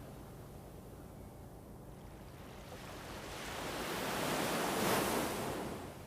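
A soft, rushing whoosh of wind-like or surf-like noise from an ambient sound bed. It builds from about halfway through, peaks near the end and fades away, over a low steady background hiss.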